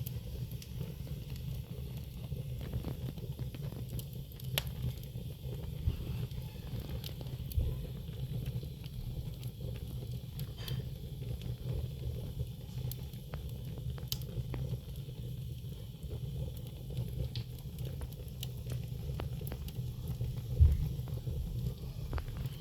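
Wood fire crackling in a fireplace: scattered sharp pops over a steady low rumble, with one louder thump near the end.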